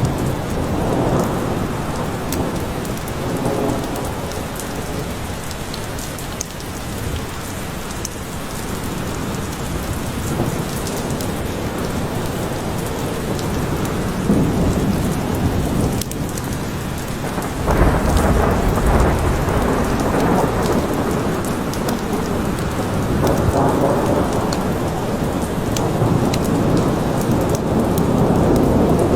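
Steady rain with thunder rumbling several times; the loudest peal starts suddenly about two-thirds of the way through and rolls on for a few seconds.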